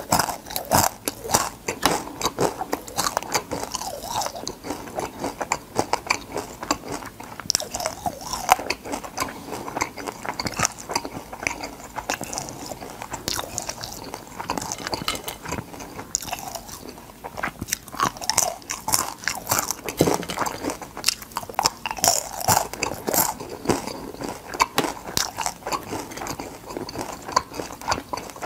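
Close-up crunching and chewing of crispy deep-fried crab, the shell pieces cracking between the teeth in quick, irregular crunches.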